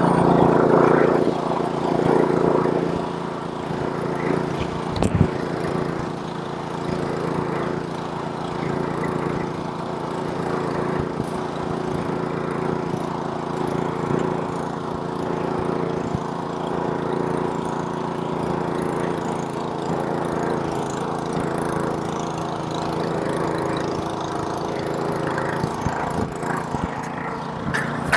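Gas snowblower's small engine running steadily while clearing snow. It is slightly louder in the first second or two, and there is a single sharp click about five seconds in.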